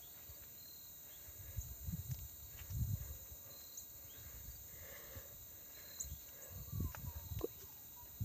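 Faint, irregular footsteps or thuds of someone walking, with faint short high chirps in the background.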